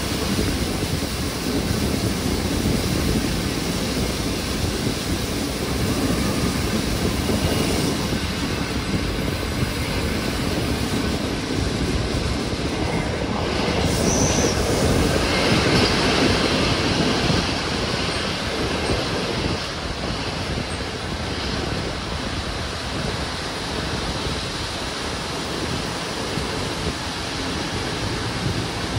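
Passenger train running along curving track, heard at a carriage window: a steady rumble of wheels on rails with a rush of passing air. A short, high squeal from the wheels comes about halfway through.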